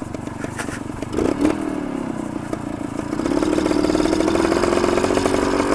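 Kawasaki F11 250 single-cylinder two-stroke dirt bike engine running under way. It grows louder as it picks up revs about three seconds in, then holds a steady pitch.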